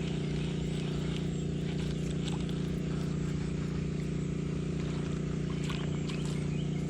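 A steady low mechanical hum that holds one pitch throughout, with a few faint ticks over it.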